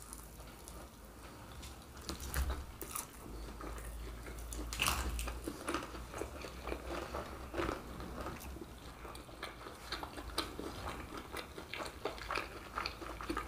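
Close-miked biting and chewing of fried Brazilian snacks, a cheese-filled kibe among them, by two people, with irregular crisp crunches and a few louder crunches.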